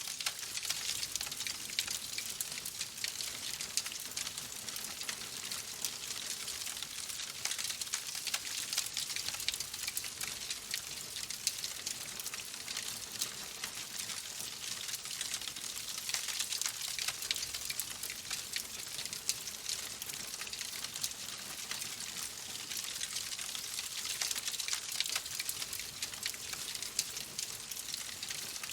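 Fireplace fire crackling steadily, a dense run of small pops and snaps over a soft hiss.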